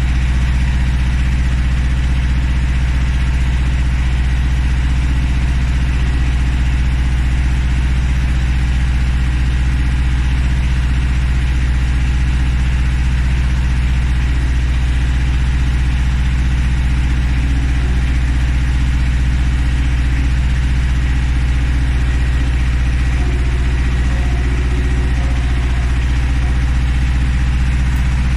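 A tractor engine running steadily at an even speed, a deep constant hum with no revving.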